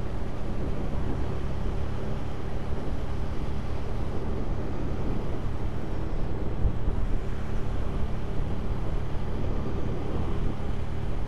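A Hyosung 250 cc V-twin motorcycle engine running steadily at cruising speed, mixed with wind rush on the microphone.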